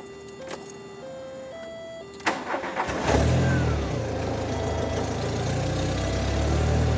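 1993 VW Cabriolet's four-cylinder engine cranked by the starter for under a second, then catching and revving briefly before settling into a steady idle. It starts readily on its newly replaced fuel pump.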